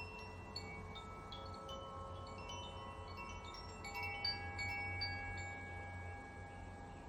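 Wind chimes ringing in the breeze: many tuned notes struck at irregular moments, each ringing on and overlapping the next, growing sparser near the end.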